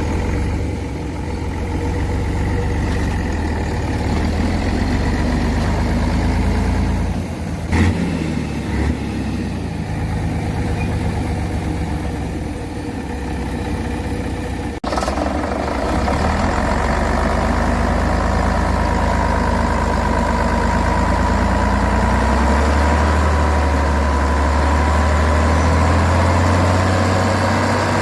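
A truck engine running steadily and heavily. There are two short knocks about a third of the way in and a sudden break about halfway, after which it runs a little louder.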